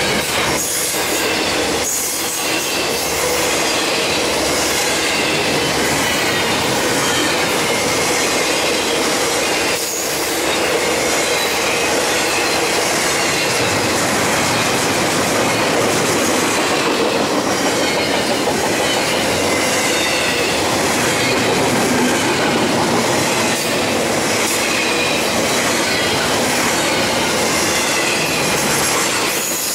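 Double-stack intermodal freight cars rolling past, with a steady rumble of steel wheels on the rails and a thin, wavering high squeal from the wheels. A few sharp knocks come through, about a second in, at two seconds and near ten seconds.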